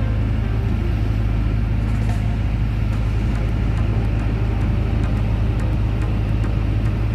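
Steady low rumble with no change in level.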